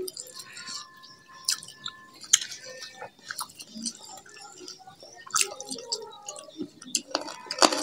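Close-up eating sounds: chewing and lip smacking, with scattered small clicks and rustles as fingers pick rice and food off banana leaves on a tray.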